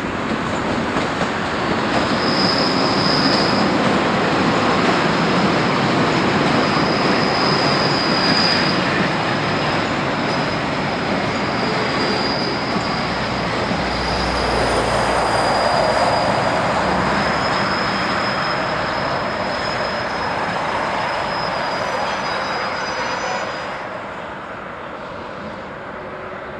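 Railway wagons rolling through a marshalling yard: a continuous rumble with a thin, high-pitched wheel squeal that comes and goes. The noise eases a little near the end.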